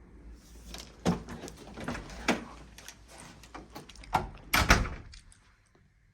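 A run of knocks, clicks and bumps from a door being handled and moved, with the loudest thumps about a second in and again near the end, then it goes quiet.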